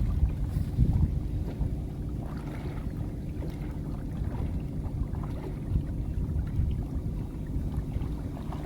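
Small boat's engine running steadily, with low wind rumble on the microphone.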